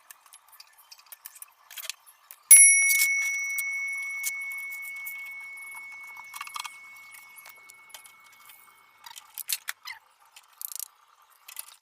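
A metal part struck once, ringing on with a clear bell-like tone that fades away over about six seconds, among light clicks and rattles of metal being handled.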